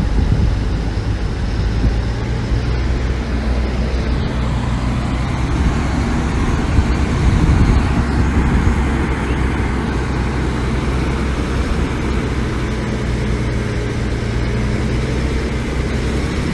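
Diesel engine of heavy earthmoving machinery running steadily under load, with a low, even drone.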